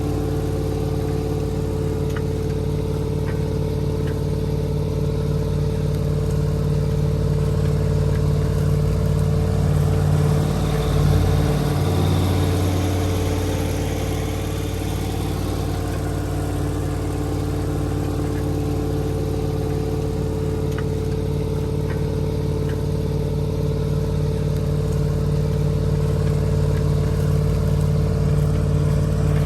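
Massey Ferguson 4840's V8 diesel engine running steadily under load while pulling a cultivator, with a brief swell and shift in its low note about eleven seconds in.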